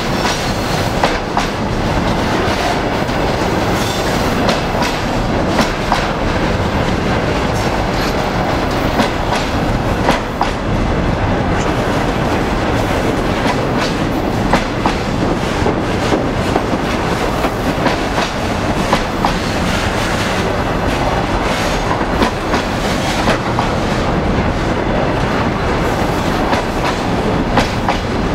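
Loaded container flatcars of a freight train rolling past: a steady rumble of steel wheels on rail with the clickety-clack of wheels over rail joints and sharp clanks now and then.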